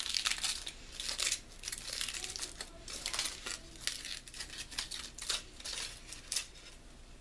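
A snack wrapper crinkling and rustling in irregular bursts as a chocolate tea cake is handled and unwrapped by hand.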